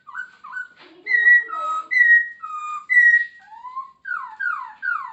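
Poksay Hongkong laughingthrush singing loud, clear whistled phrases. A few short slurred notes lead into held notes that alternate high and low, then a rising note, then a run of four quick falling whistles near the end.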